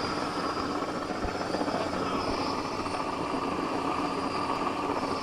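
Helicopter crane running steadily, a continuous even noise with no change in pitch.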